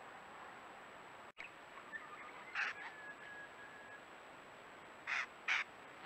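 Three short, harsh rasping bird calls, one about two and a half seconds in and two close together near the end, with faint thin whistled notes between them and a steady faint high whine behind.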